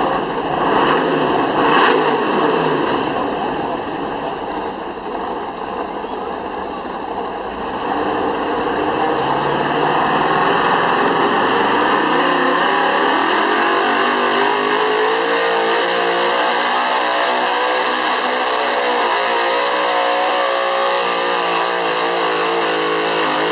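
Street-class 4x4 pickup truck engine running at full throttle as it drags a weight sled down the pull track. It is loud throughout; the pitch wavers at first, then from about halfway holds high and steady under hard load.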